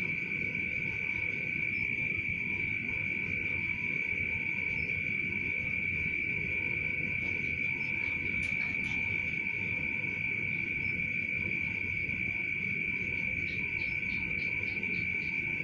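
A steady, unbroken high-pitched tone, insect-like, over a low rumbling drone, with two faint clicks about halfway through.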